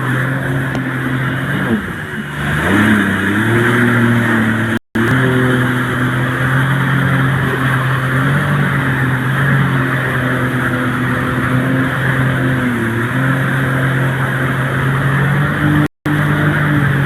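Motor of the boat towing a banana boat, running steadily at speed over a rush of wind and water spray. Its pitch dips and climbs back about two seconds in, and wavers again near the end. The sound drops out for an instant twice.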